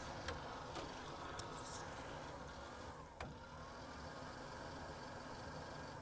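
Faint steady low rumble with a few soft clicks, one sharper click about three seconds in.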